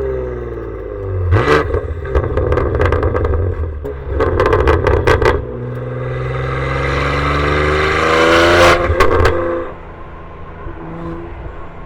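BMW G87 M2's twin-turbo inline-six with the exhaust valves open and the recording clipping: a burst of sharp pops and crackles between throttle blips, then a long rising pull under acceleration. About ten seconds in the pull cuts off sharply on lifting, dropping to a quieter steady cruise.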